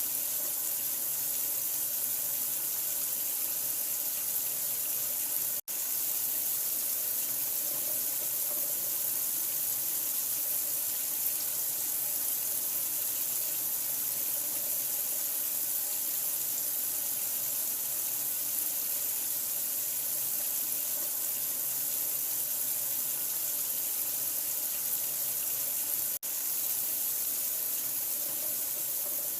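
Steady, even rush of running water, heavy in the high hiss, used as white noise to lull a newborn to sleep. It cuts out for an instant twice, about six seconds in and near the end.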